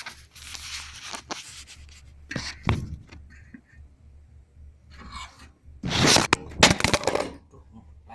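Irregular scraping and crunching of things being handled, in short uneven bursts, loudest about six to seven seconds in.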